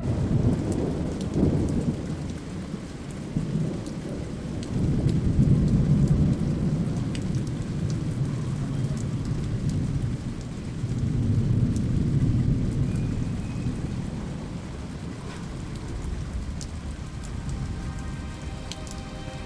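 Rain falling with rolling thunder: a low rumble that swells and fades several times, loudest around five to six seconds in, over a light patter of drops.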